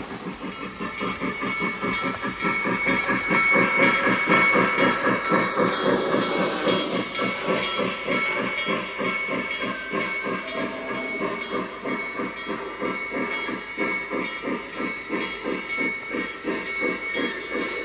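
O scale MTH Premier Chessie Berkshire model steam locomotive's onboard sound system chuffing, about four to five chuffs a second, over the hum of the train rolling on three-rail track. It grows louder to a peak about four seconds in, then slowly fades as the train moves off.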